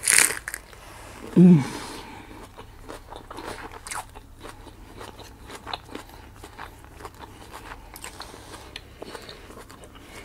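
Close-up mouth sounds of eating crisp romaine lettuce wraps: a wet smack of a finger licked at the start, a short hummed 'mm' about a second and a half in, then steady crunchy chewing full of small crisp crackles.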